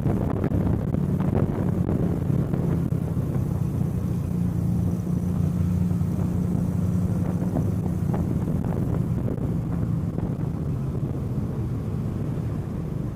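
2024 Kawasaki Eliminator SE's parallel-twin engine running steadily under way, heard from on the bike, easing off slightly near the end.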